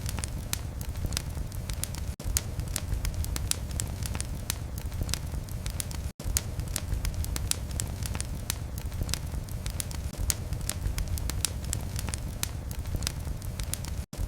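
Fire burning in a fireplace: a steady low rumble under dense, irregular crackles and pops. The sound cuts out for an instant three times.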